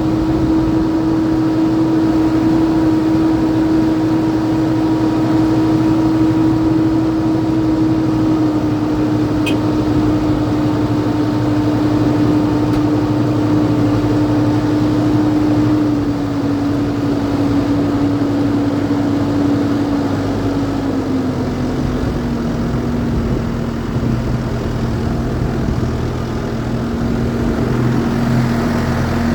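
An engine running steadily, its hum falling slowly and slightly in pitch in small steps.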